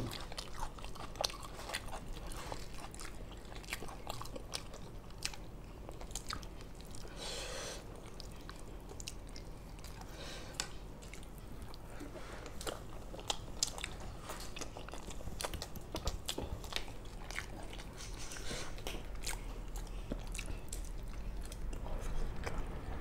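Two people chewing and biting food close to the microphone while eating by hand: a steady run of many short, sharp mouth clicks and bites.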